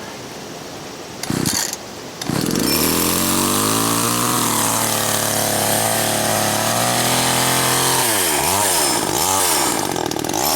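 Japanese-made two-stroke chainsaw engine, hard to start and cold on choke. After a brief burst about a second in, it catches about two seconds in and runs, its pitch climbing and then settling. From about eight seconds the throttle is blipped in quick repeated rises and falls.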